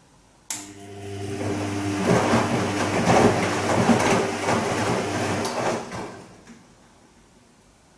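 Bosch Serie 2 VarioPerfect washing machine starting up with a click, then a steady motor hum and water and laundry sloshing in the drum for about five seconds before it stops, on a gentle silk wash cycle.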